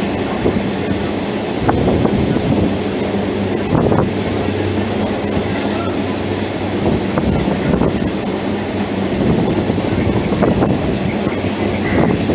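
An EMU local train running along the track, heard from on board: a steady rumble of wheels on rails under a low electric hum, with a few single knocks as the wheels pass rail joints.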